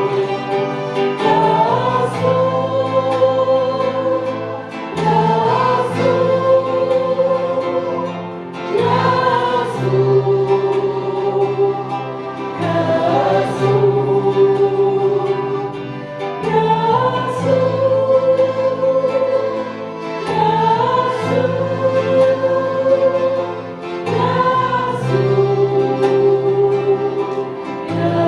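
Group of voices singing an Arabic worship hymn in long held phrases over instrumental accompaniment, with a new phrase starting about every four seconds.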